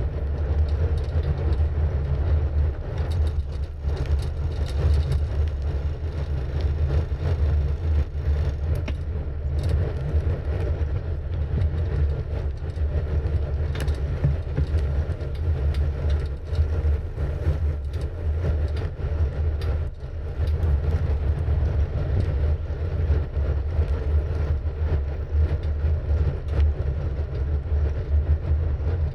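Wind buffeting the microphone and tyre rumble while riding a bicycle: a steady, loud low rumble that flutters continuously.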